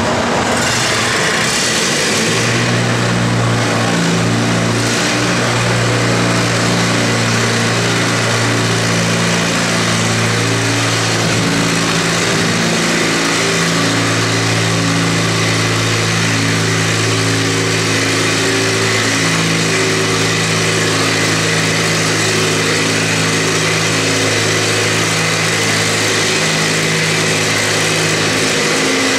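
Antique farm tractor engine running steadily, its note wavering for a few seconds near the middle.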